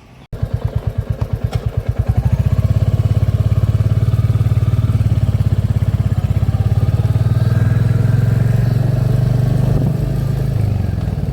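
Royal Enfield motorcycle engine running at idle with evenly spaced exhaust beats; it comes in abruptly just after the start and then runs steadily.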